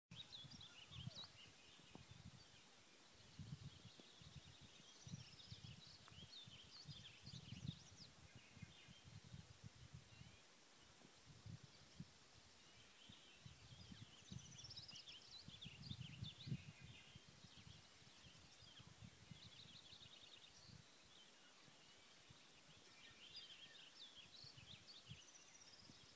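Faint birdsong: high chirps and trills in three bouts, over a low, irregular rumbling.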